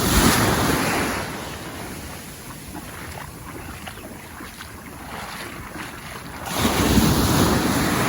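Surf washing up the beach with wind buffeting the microphone: a wave surges in at the start, the wash dies down, and another wave comes in about six and a half seconds in.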